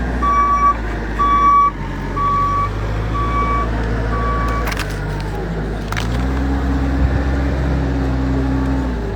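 A large vehicle's reversing alarm beeping about once a second, five beeps in all, over its steadily running engine. About six seconds in the engine note steps up and grows louder, then drops back near the end.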